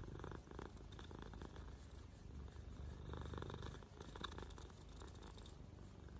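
A cat purring, faint and low.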